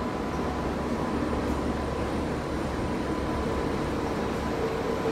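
Steady low rumble of a passenger train pulling out, its coaches rolling away down the line, with a thin steady hum over it.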